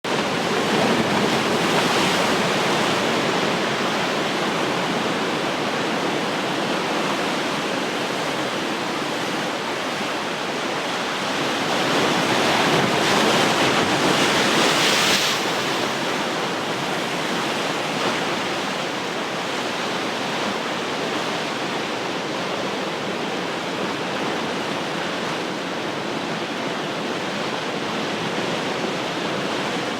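Ocean surf: waves breaking and washing in a continuous rush, swelling up twice (near the start and loudest around the middle) before settling into a steady wash.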